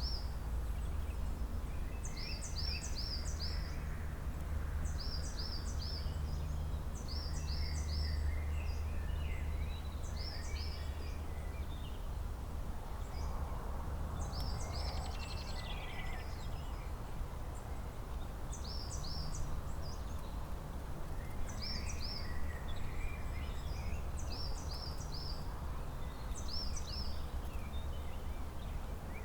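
Songbirds singing in spring: one bird repeats a short, high phrase of three or four quick notes every few seconds, with fainter chirps from other birds. A steady low rumble runs underneath.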